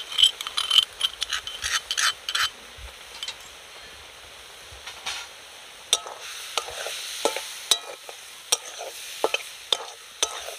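Potato and cauliflower pieces frying in a metal karai with a steady sizzle. In the first couple of seconds there is a quick run of scraping and tapping as ginger-green chilli paste is tipped into the pan; from about six seconds in a spatula stirs the filling, scraping and knocking against the pan's side.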